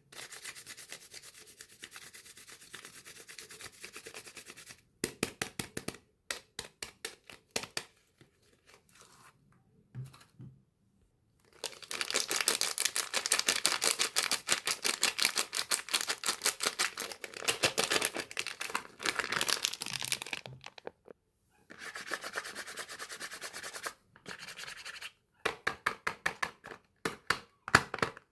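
Soap bars being unwrapped: rapid scratching and rustling of the packaging in bursts, with short pauses between them. The longest and loudest stretch is in the middle.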